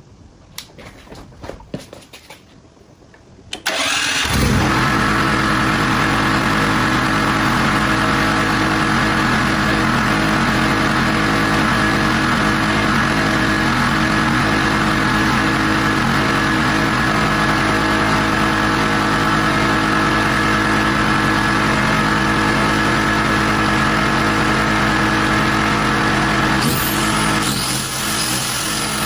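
A few faint clicks, then about four seconds in an engine starts and runs steadily at idle. The builder claims it runs on gas made by hydrolysis of water. Near the end its sound changes and drops a little.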